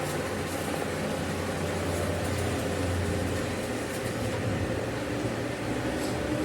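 A workshop machine running steadily with a low hum and an even rushing noise.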